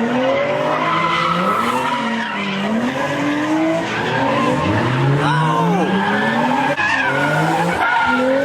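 Car engines revving hard with tyres skidding and squealing; engine pitch climbs and falls again and again, with a strong rising rev about five seconds in.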